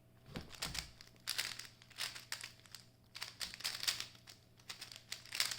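GAN 13 MagLev 3x3 speedcube being turned fast in a speedsolve: quick runs of crisp plastic turning clicks, broken by a few short pauses.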